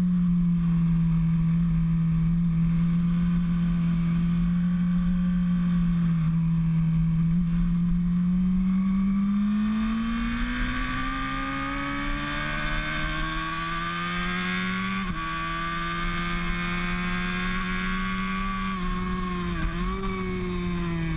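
Racing motorcycle engine running at speed. It holds a steady pitch, then climbs under acceleration, drops sharply about two-thirds of the way through as it shifts up, and dips briefly a couple of times near the end.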